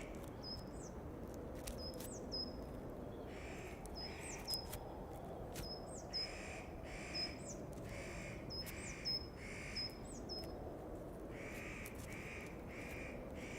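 Wild birds calling over a faint outdoor background. One bird gives short calls in clusters of two or three, and another gives high, thin notes that rise and fall, repeated about every half second to second.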